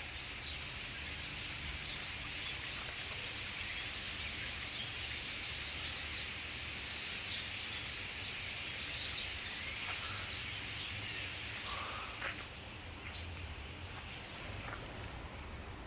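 A huge flock of small birds chattering together in trees, a dense wall of overlapping chirps. The chatter thins out abruptly about twelve seconds in, leaving scattered calls over a low background rumble.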